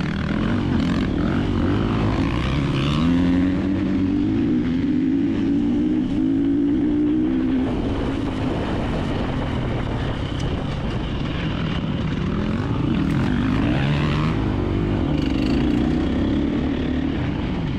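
KTM 350XC-F dirt bike's single-cylinder four-stroke engine pulling at low revs, its pitch rising and falling with the throttle. The bike is being lugged in too tall a gear through slow terrain.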